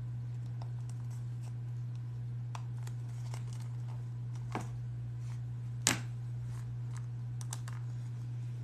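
Steady low hum of a room fan, with scattered small clicks and taps of leather and tools being handled, and one sharper click about six seconds in.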